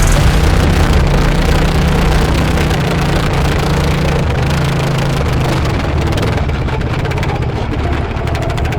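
Racing lawn mower's engine running steadily with a rapid, even firing beat, easing off slightly after about six seconds.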